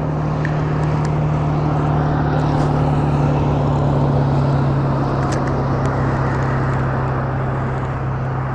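A steady low engine drone, swelling slightly in the middle.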